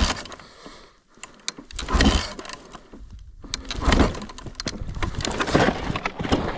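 Yamaha YZ450 four-stroke dirt bike being kick-started over and over, about four kicks roughly two seconds apart, the rebuilt engine turning over without catching.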